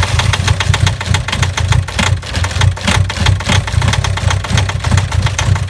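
A 2006 Volkswagen Jetta's 1.9-litre four-cylinder TDI diesel running just after a cold start at about −35°, with loud, rapid knocking. Those present take the knocking for a sign that something is wrong inside the engine.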